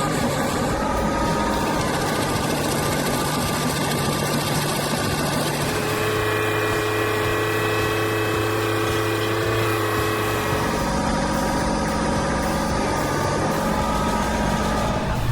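An engine running steadily, its pitch and tone shifting twice: once about six seconds in and again about ten seconds in.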